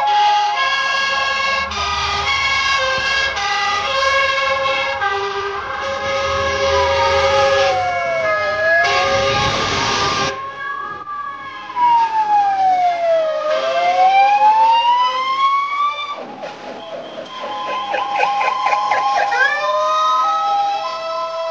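Several fire-engine sirens sounding together, with alternating two-tone calls overlapping wailing tones that fall and rise again. A loud rushing burst comes about nine seconds in, and a siren winds up rising near the end.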